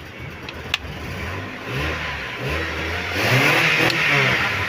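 A motor vehicle engine revving up, its pitch climbing and falling back, loudest near the end, after a single sharp click about a second in.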